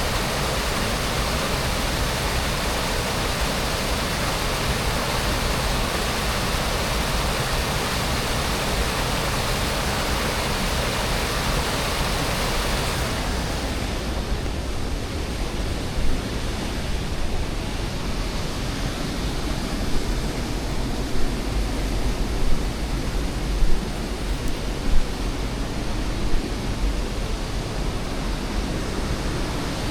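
Waterfall's steady rush of water. Nearly halfway through it turns duller as the hiss drops away, and a few short low thumps come through in the second half.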